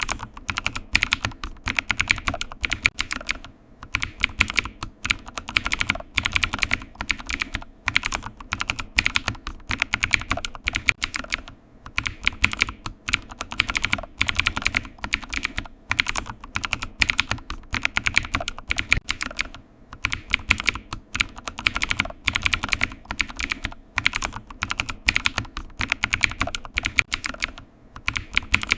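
Computer keyboard typing: a fast, uneven run of key clicks, broken by short pauses every several seconds.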